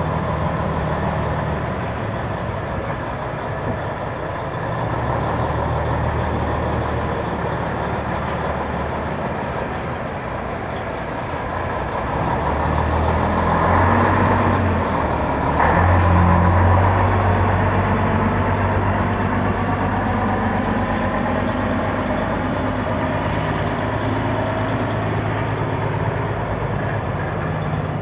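Scania 'Jacaré' truck's diesel engine running during a maneuver. The engine speeds up and gets louder about halfway through, then settles to a steady run.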